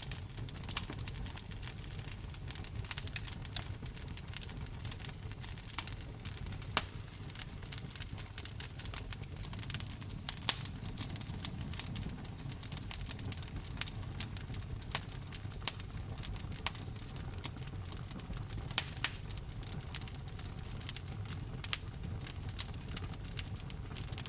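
Wood fire burning in a fireplace: irregular sharp pops and crackles from the burning logs over a steady low rumble of the flames.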